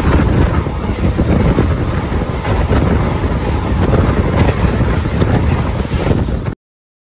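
Wind buffeting the microphone over the steady running rumble of a moving passenger train, the Gunupur Rajya Rani Express. The sound cuts off suddenly near the end.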